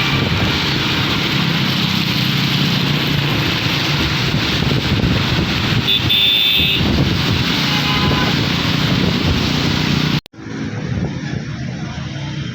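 Vehicle driving on a wet road in heavy rain: a steady rush of tyre spray and rain noise, with a brief high tone about six seconds in. About ten seconds in it cuts off abruptly and is replaced by quieter, duller road noise.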